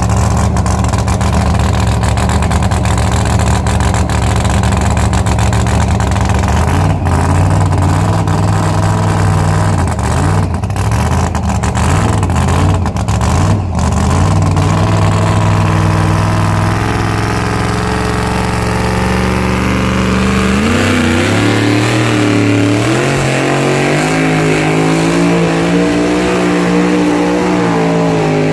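A pulling vehicle's engine running hard at high throttle under load. It holds a steady pitch at first, wavers in the middle, then climbs in pitch about three-quarters of the way through and swings up and down as the revs change.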